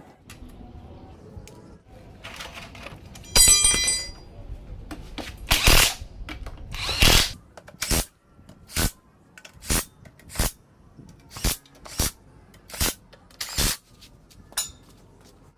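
A power tool run in short bursts: one longer run with a whine about three and a half seconds in, a few longer runs after it, then about eight short bursts roughly once a second.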